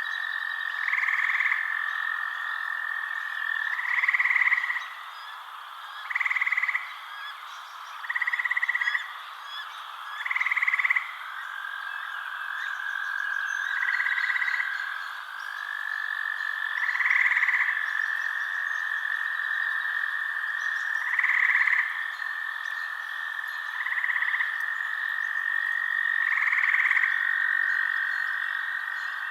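Frogs calling at night: short croaking calls about every two seconds over a continuous high trill.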